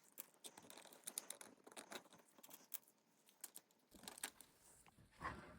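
Near silence with faint, scattered short clicks and crinkling.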